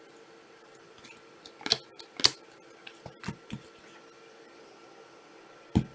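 Trading cards being handled: a few short rustles and taps as cards are slid and set down, loudest around two seconds in and just before the end.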